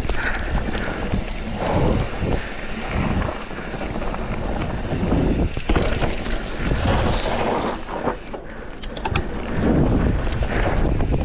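Wind buffeting the microphone on a fast mountain bike descent, mixed with tyre noise that swells and fades, and a quick run of rattling clicks about nine seconds in.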